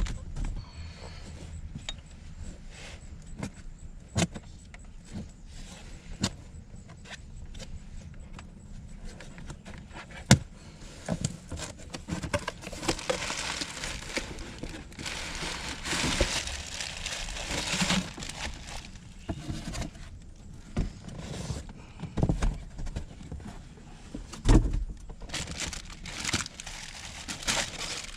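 Hands working at a car's rear-deck speaker and trim: scattered clicks and knocks, a stretch of scraping and rustling in the middle, and a few sharper thuds.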